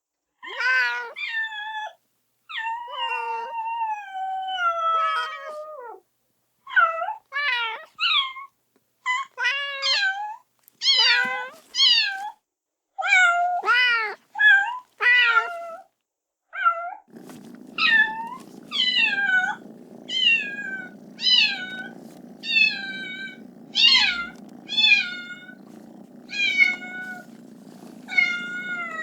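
Kitten meowing over and over in high, short calls, one long call sliding down in pitch early on, then about one a second: a kitten's calls for its mother. About halfway through a steady low hum sets in under the meows.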